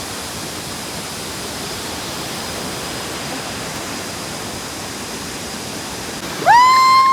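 Steady rushing of a waterfall. Near the end a loud, high, pitched tone rises quickly and is held steady for over a second.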